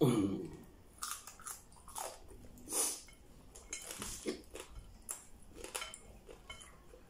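Close-up chewing and mouth smacking of a person eating rice and fish by hand, with irregular wet clicks and occasional crunches.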